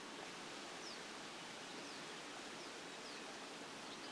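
Faint outdoor ambience at a reedbed nature reserve: a steady hiss with a few faint, short, high chirps from distant small birds scattered through it.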